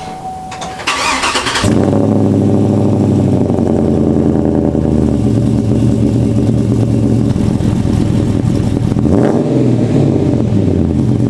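Pickup truck engine cranked briefly by the starter and catching about a second and a half in, then idling steadily, with a short change in pitch near the end. A steady beep sounds for the first second, before the crank.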